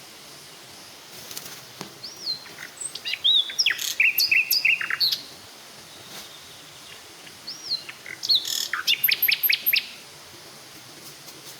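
Birds singing: two bouts of chirping and trilled phrases, with a short rising-and-falling whistle repeated every few seconds, over a steady hiss.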